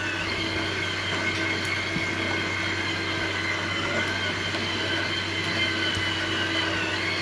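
Small electric motors and gearing of a model dump-pit conveyor system running steadily: a constant whine made of several high tones that waver slightly in pitch, over a low hum.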